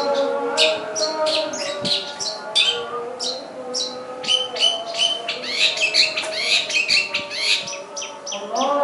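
Long-tailed shrike (pentet) singing a string of sharp, high chirps, two or three a second, thickening into a denser run of notes in the middle. A steady droning chord of tones sounds underneath and glides upward near the end.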